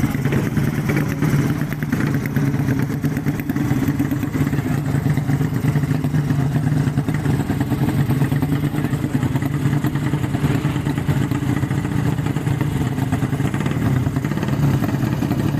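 Underbone racing motorcycle engine running at a steady speed, without revving up or down.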